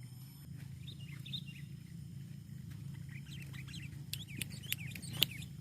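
Sooty-headed bulbul (kutilang) giving short chirping notes, sparse at first and coming quicker from about three seconds in, with a few sharp clicks near the end over a steady low hum.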